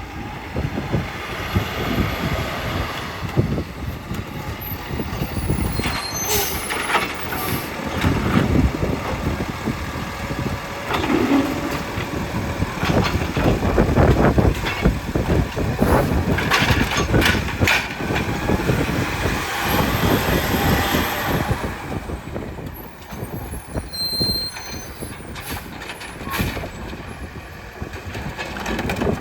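Garbage truck working: its diesel engine runs under a series of air or hydraulic hisses and metallic clanks.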